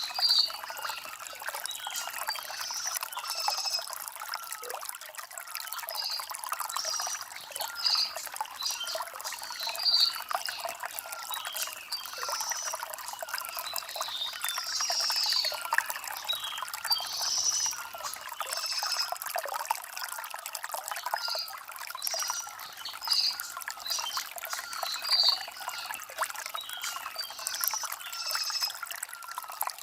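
Shallow stream trickling and gurgling over river stones, with short high bird chirps recurring every second or two.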